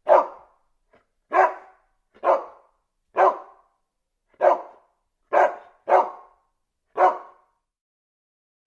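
A dog barking: eight single barks, about one a second, with a quick pair near the middle.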